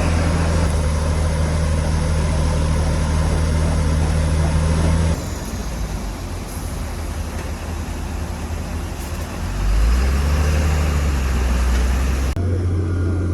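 Heavy diesel engines of earthmoving machinery running with a steady low drone. The sound changes abruptly about five seconds in and again near the end, and a low engine note rises as an engine revs up a little before ten seconds in.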